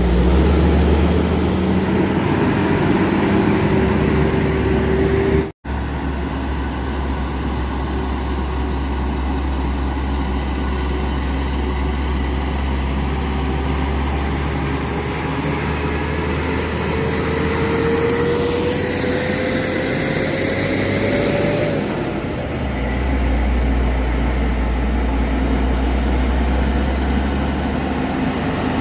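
Heavy diesel truck engine running under load on a hill climb, its note slowly rising over several seconds, with a steady high whine above it. The sound drops out for an instant about five and a half seconds in.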